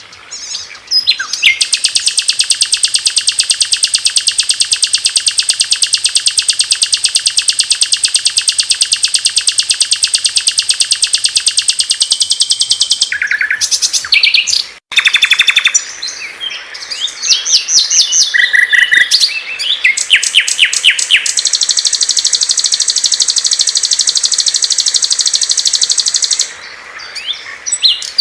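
Small songbirds singing loudly and close up: a long, very fast, even trill, then a sudden break about halfway, short varied chirps, and a second fast trill near the end.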